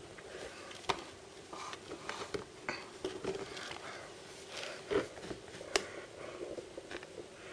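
Hands handling blind-box packaging: plastic and cardboard crinkling and scraping, with a few sharp clicks and taps, the loudest about five to six seconds in.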